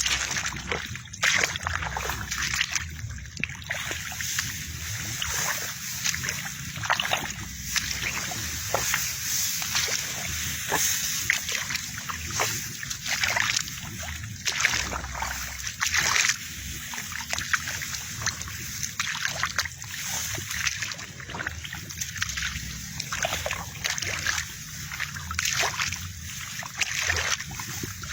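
Water in a wet rice paddy splashing and sloshing in short, irregular bursts, one or two a second, over a low steady rumble.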